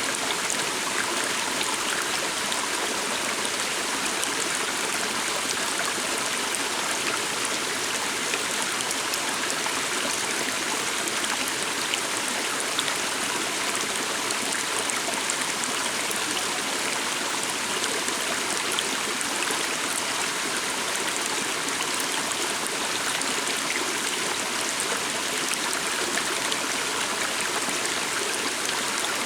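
Steady flowing stream: water running and trickling over rocks, an even splashing rush with no let-up.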